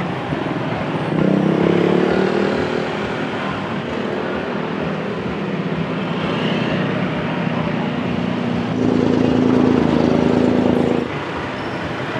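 Street traffic with motorbike engines passing close by. One engine rises in pitch about a second in, and a louder one runs for a couple of seconds near the end before cutting off abruptly.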